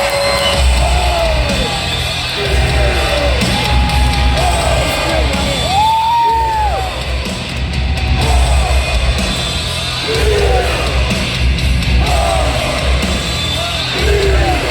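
Loud music with a pulsing bass beat, over a crowd yelling and whooping.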